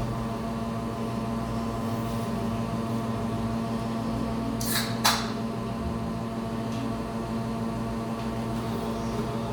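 A café drink machine runs with a steady electric hum that starts at once, with two sharp clicks about halfway through.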